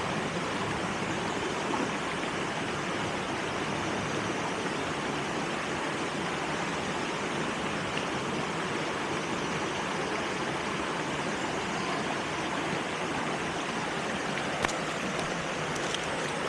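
Steady rush of water from a forest waterfall and stream, with a couple of sharp clicks near the end.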